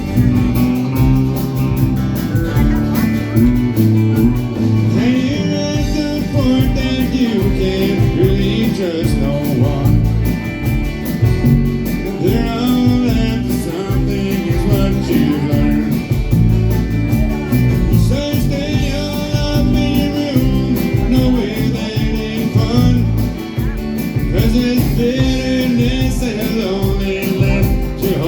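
A live country band playing, with guitar and a singing voice over a steady beat.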